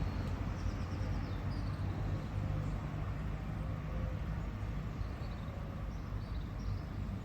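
Outdoor ambience: a steady low rumble with a few faint, short bird chirps, twice early on and twice near the end.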